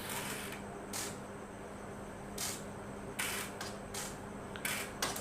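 Water being poured into the priming port of a domestic electric water pump to fill its casing before starting, heard as a run of short splashing hisses over a faint steady hum.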